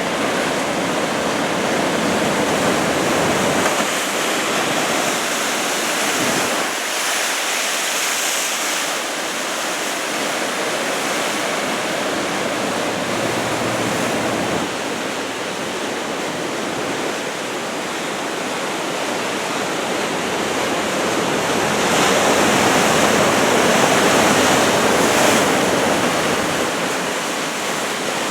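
Ocean surf breaking and washing in a continuous rush of water noise, swelling louder for a few seconds near the end.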